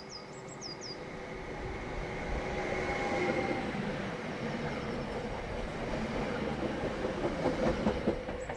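Electric multiple-unit passenger train passing along the station track, growing louder toward the middle, with a quick run of clicks from the wheels near the end as the last cars go by.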